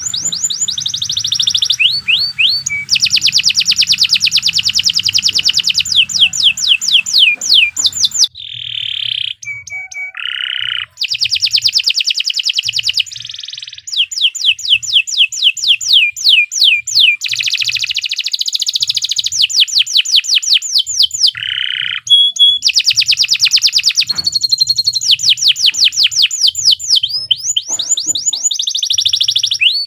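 Domestic canary singing a long, unbroken song: fast runs of repeated downward-sweeping whistles and trills that switch between phrases, with a short lower, quieter passage about eight to eleven seconds in.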